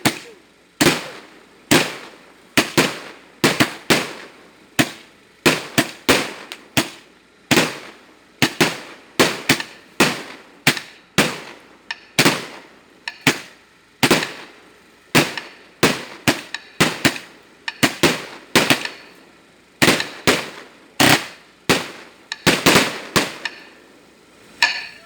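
A long, irregular series of sharp, loud bangs, about one to two a second, each dying away with a short ringing tail.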